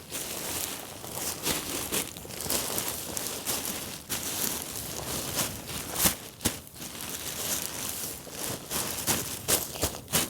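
Deflated kite's canopy fabric crinkling and rustling as it is folded up by hand, with irregular sharp crackles throughout.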